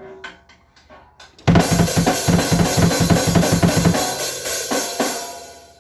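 Drum kit played: a few scattered hits, then a loud, fast run of drum strokes, about eight a second, under crashing cymbals. The strokes stop about four seconds in and the cymbals ring out and fade by the end.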